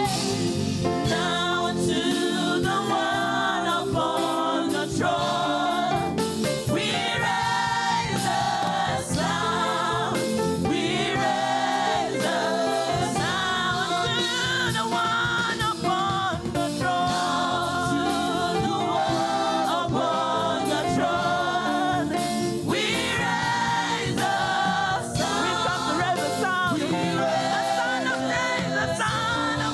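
Church choir singing a gospel praise song over steady instrumental accompaniment.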